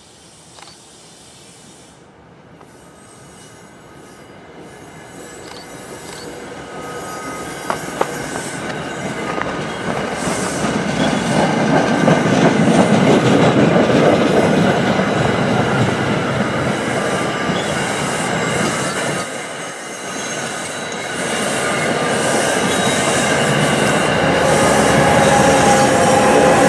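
NJ Transit push-pull commuter train rolling past: the cab car and coaches grow steadily louder as they approach, with a high wheel squeal over the rumble of the wheels on the rails. The locomotive at the rear comes by near the end.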